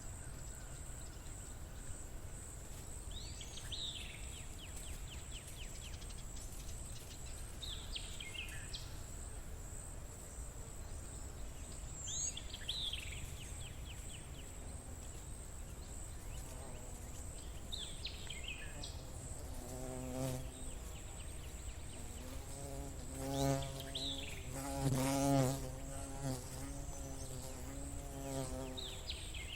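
Insects over a steady high insect trill, with a short falling bird-like call repeating every four or five seconds. In the last third a buzzing like a fly swells and fades several times.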